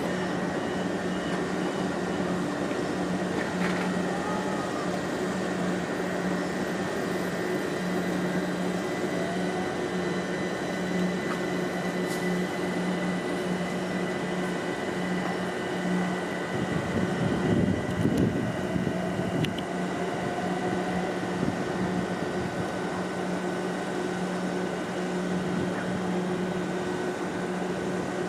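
Steady electric hum of a train standing at the platform, its auxiliary equipment and air-conditioning running with a constant low tone. A brief louder, rougher stretch comes a little past halfway.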